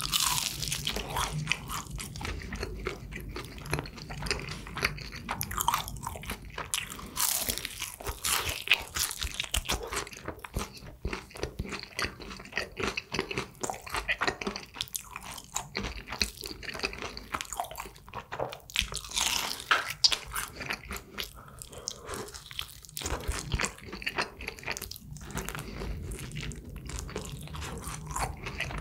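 Biting into and chewing Kyochon Honey Combo fried chicken, with many crisp, irregular crunches of the fried coating.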